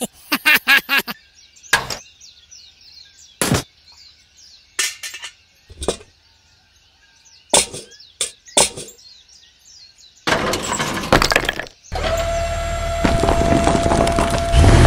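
A series of sharp cracks and clinks, like brittle material breaking, spaced irregularly. About two-thirds of the way in, a steady motor drone with a single held tone takes over.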